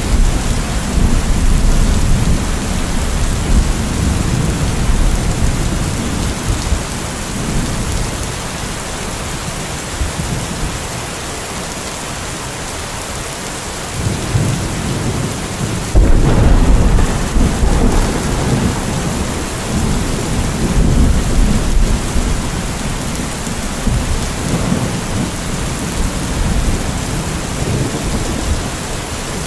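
Steady rain with rolling thunder. The low rumble dies away through the first half, then a sudden loud thunderclap comes just past halfway and rumbles on under the rain.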